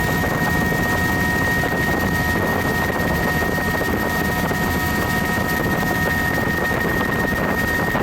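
Helicopter heard from inside its doors-off cabin in flight: the steady din of engine and rotor with wind through the open doors, and a constant high whine.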